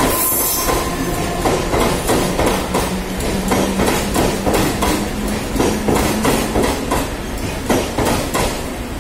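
Mumbai suburban electric local train (Central Railway EMU) running past the platform, its wheels clattering over the rail joints in a quick, regular clack-clack, with a steady low hum under it for much of the time.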